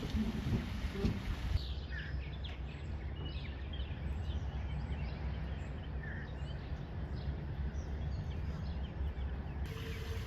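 Small birds chirping and calling again and again over a steady low rumble.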